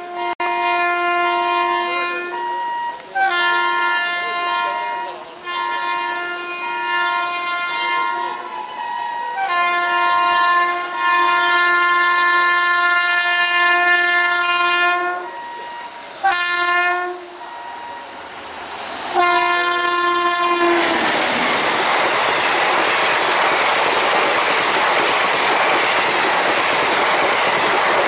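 Indian Railways electric train horns sounding a long series of blasts, several held for a few seconds, with more than one pitch sounding together. About 20 seconds in, the horns stop and the loud, steady rush and wheel clatter of a passenger train's coaches passing close by at speed takes over.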